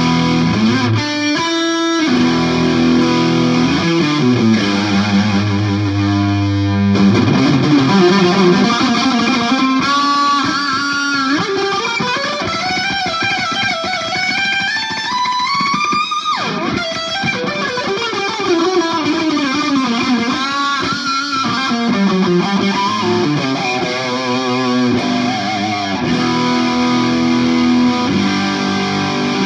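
Distorted electric guitar from a 1967 Gibson SG with P90 pickups, played through a Marshall JCM 2000 amp and a Headrush effects pedalboard. Held chords give way to a note that climbs in pitch for several seconds, drops sharply and winds back down, then more held chords.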